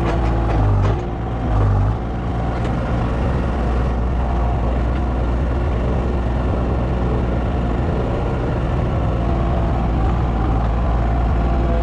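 An engine running steadily at a low, even speed, with two brief swells in its note in the first two seconds.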